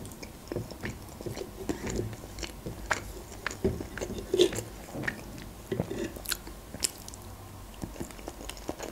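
Close-miked chewing and wet mouth clicks of a person eating, with irregular light clicks and taps from a metal fork against a frying pan.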